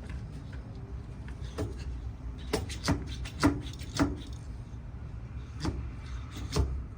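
A series of about seven sharp knocks and clicks, irregularly spaced, over a steady low rumble, like tools or parts being handled.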